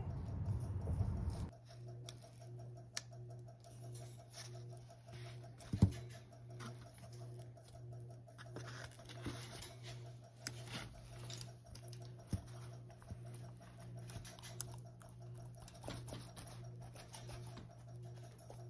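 Faint scattered clicks, taps and scratches, typical of monitor lizards' claws moving over their enclosure, over a steady low hum. A low rustle comes in the first second and a half, and a sharper knock about six seconds in.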